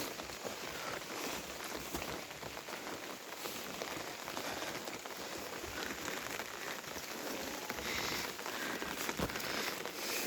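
Steady monsoon rain falling, a dense hiss of many small drop hits.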